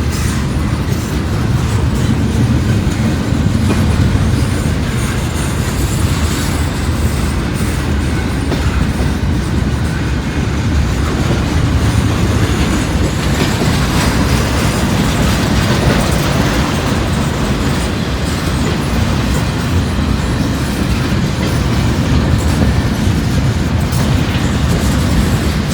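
Long freight train rolling past close by, a steady rumble with clattering wheels on the rail joints.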